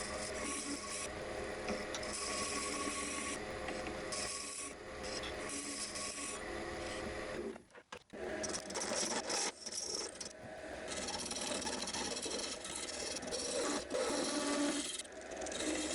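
Abrasive sanding of a turned wooden piece, a steady rasping rub that stops abruptly for about half a second roughly eight seconds in, then resumes.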